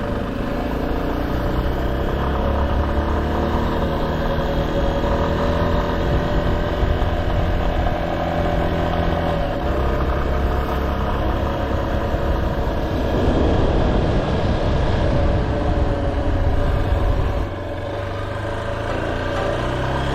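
Motorcycle engine running under way, its pitch rising and falling as the revs change. The engine note drops back about three-quarters of the way through.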